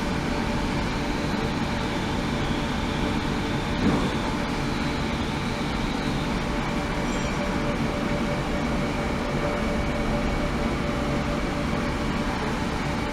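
Steady rumbling, machine-like noise with a few faint steady tones in it, and a single short knock about four seconds in.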